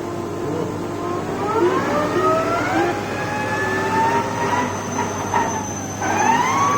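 Whistle from a Toyota Camry XV50's Aisin U760 six-speed automatic transmission, heard as the car pulls away. The whine rises in pitch as the car gathers speed, dips about six seconds in, then climbs again. Its cause is unidentified; the owner suspects the automatic gearbox.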